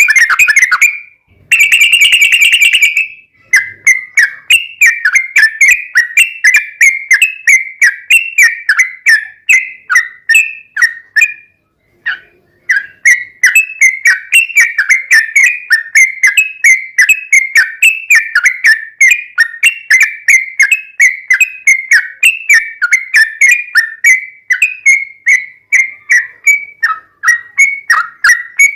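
Yellow-vented bulbul (trucukan) singing loud, long, rapid rolling phrases of quick repeated chirping notes, with a brief pause a little under halfway through.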